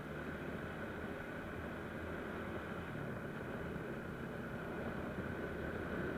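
Motorcycle engine running steadily, with a constant rushing noise over it.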